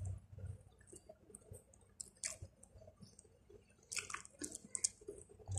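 Quiet chewing with soft wet smacks and lip clicks: a person eating with her mouth close to the microphone, the sounds coming thicker about four seconds in.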